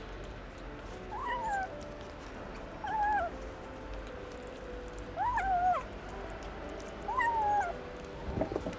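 Young kitten meowing four times, about two seconds apart, each call rising and then falling in pitch. A few soft knocks near the end.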